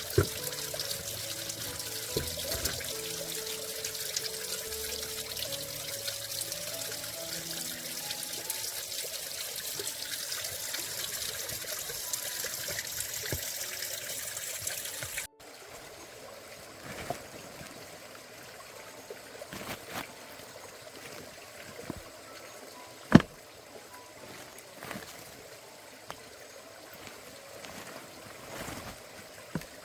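Water trickling steadily under soft background music, which cuts off abruptly about halfway. After that it is quieter, with scattered clicks and knocks and one sharp knock louder than the rest.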